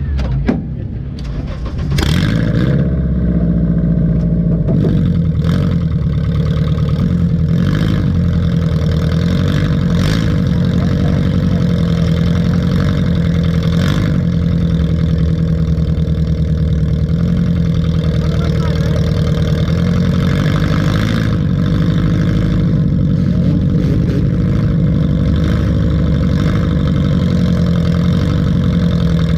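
A junk race car's engine pulling hard at high revs. It climbs sharply about two seconds in, then holds steady, with occasional sharp knocks and bangs.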